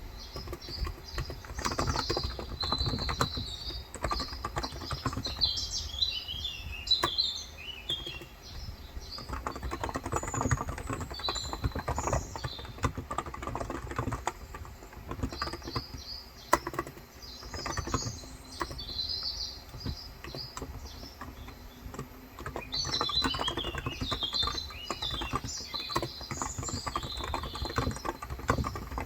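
Typing on a COX Endeavor electro-capacitive tenkeyless keyboard with 35 g switches, a steady run of keystrokes. Small birds chirp in several spells over it.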